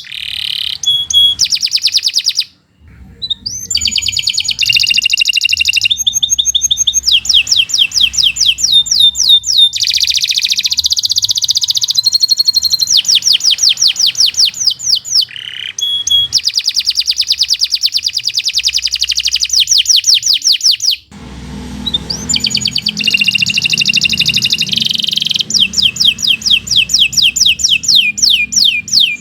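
Domestic canary singing a long, fast song of rapid rolling trills, each a quick run of the same sweeping note repeated many times, switching from one trill to the next. The song breaks off briefly about two and a half seconds in and again near the 21-second mark, and a low hum sits under it after the second break.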